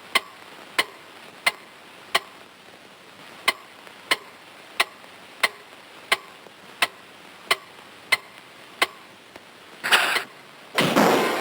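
Cartoon sound-effect clock ticking steadily, about three ticks every two seconds. Near the end a louder burst of sound breaks in.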